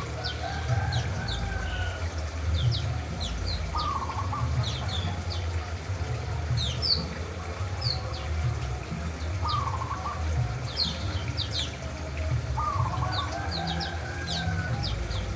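Small songbirds, white-eyes (pleci), chirping: many short, quick, high notes scattered throughout. Underneath, a lower bird call comes about four times, a few seconds apart, over a steady low hum.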